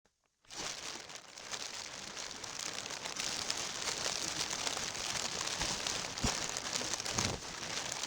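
Plastic being crinkled, recorded for its ultrasonic content and pitched down two octaves, so it plays as a slowed, dense, low crackle. It starts about half a second in after a short silence.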